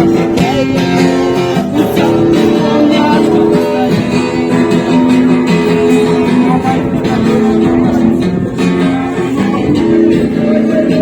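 Guitar being strummed in an instrumental passage between sung lines.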